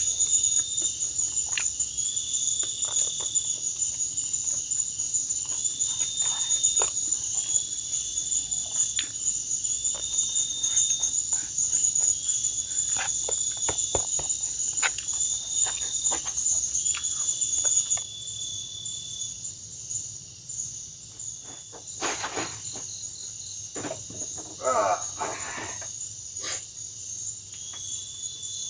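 Night chorus of rainforest insects: a steady, high-pitched chirring that falls away about two-thirds of the way through. Over it, a shorter, lower call repeats every couple of seconds. Scattered light clicks and knocks are heard nearby, with a brief burst of knocking and rustling near the end.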